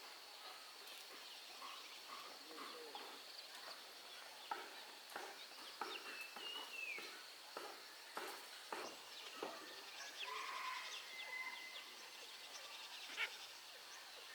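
Faint rural outdoor ambience: scattered bird calls over a steady high hum, with light sharp knocks now and then, the clearest about four and a half seconds in and near the end.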